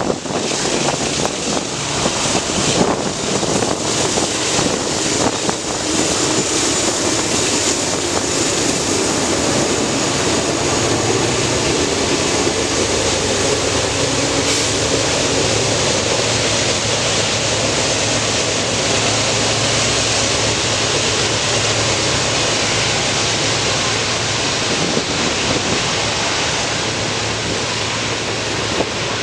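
Train cars rolling past: a steady rush and rumble of steel wheels on rail, with a few clicks over the first several seconds.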